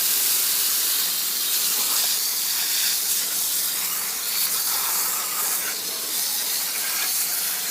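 Garden hose spray nozzle jetting water onto a degreased push mower engine and deck, rinsing off the degreaser: a steady hiss of spray.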